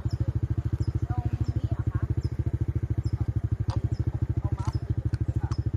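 A small engine running steadily, a rapid, even low throb of about thirteen beats a second, with faint short chirps above it.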